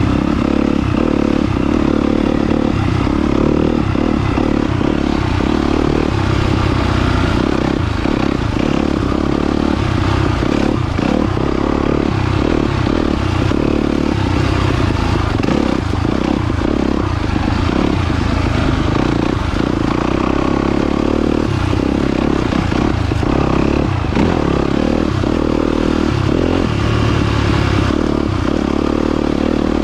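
2022 Yamaha YZ250FX's 250 cc four-stroke single-cylinder engine running under way, its revs rising and falling, with frequent clattering knocks from the bike.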